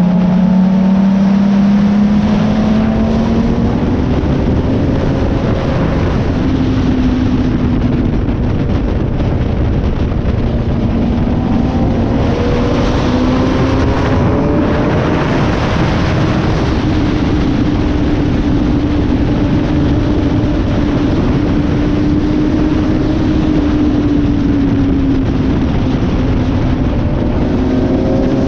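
Suzuki GSX-R sport bike's inline-four engine being ridden hard on track, its pitch climbing and dropping with throttle and gear changes, under heavy wind rush on the microphone.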